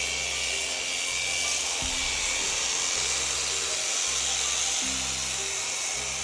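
Electric sheep-shearing handpiece running steadily through a fleece, a constant high whine over a hiss, with music playing underneath.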